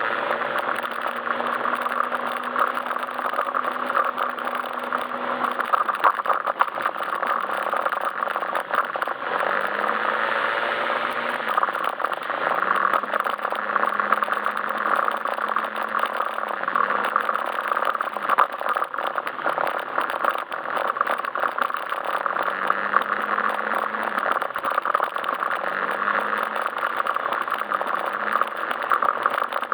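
Yamaha Majesty S scooter's single-cylinder engine running while riding, its pitch stepping up and down several times with the throttle, under a steady rushing noise of wind and road.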